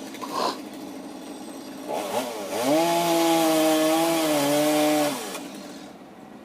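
Chainsaw running at low speed, then revved up to full throttle for about three seconds while a tree climber cuts a log free. The pitch drops slightly under load before the throttle is released.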